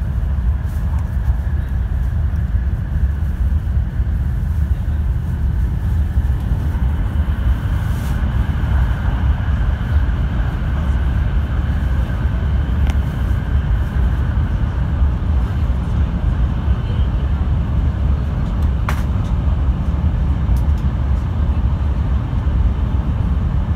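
Cabin noise inside a moving 700 series Rail Star Shinkansen car: a steady low rumble from the running train, with a few faint clicks.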